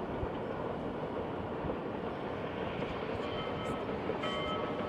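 Spokane, Portland & Seattle 700 steam locomotive and its train rumbling steadily along the track. About three seconds in, a whistle begins sounding a multi-note chord, faintly at first and then louder near the end.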